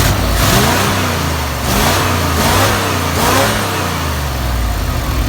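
Old water truck's gasoline engine running with its freshly rebuilt carburetor, its throttle blipped about four times so the pitch rises and falls.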